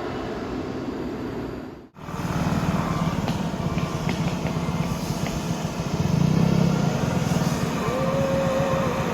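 Heavy truck engine running with a low, pulsing rumble, after the sound cuts out abruptly about two seconds in. A short steady high tone joins it near the end.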